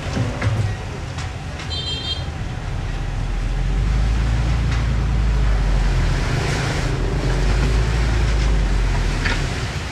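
Diesel engine of heavy earthmoving machinery running and working, its low rumble growing louder from about three seconds in. Scattered clanks and a brief high-pitched tone about two seconds in.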